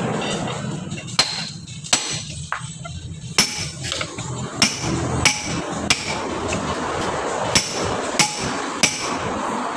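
Hammer blows on a truck wheel while the tyre bead is worked loose from the rim: a string of sharp, ringing metal strikes, irregularly spaced about a second apart.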